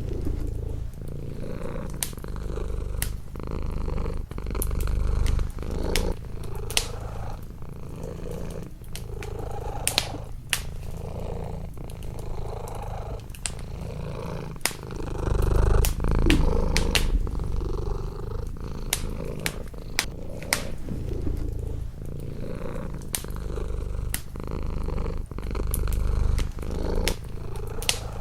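A domestic cat purring close up, in waves that swell and fade every few seconds with its breathing. Over it come the sharp, irregular pops and crackles of a wood fire burning in a fireplace.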